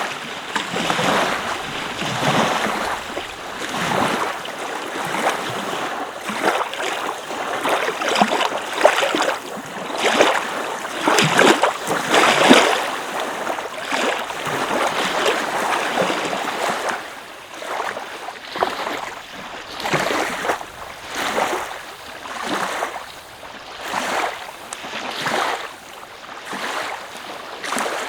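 Small waves washing onto a beach in a steady rhythm, each one swelling and falling away every second or two, with the surges loudest about halfway through.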